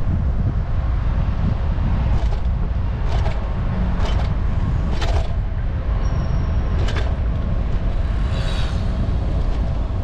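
Steady low rumble of wind and road noise on the microphone of a moving bicycle, with about five sharp clicks or knocks roughly a second apart and a brief high whine about six seconds in.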